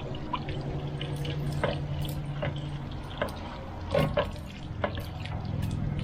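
Water pouring and dripping out of an RV water heater's drain opening as the tank is emptied, carrying sediment shed by the anode rod. A steady low hum runs underneath, with scattered splashes and drips.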